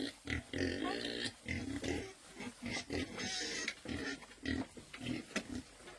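Pigs grunting in a quick, irregular run of short calls, several a second.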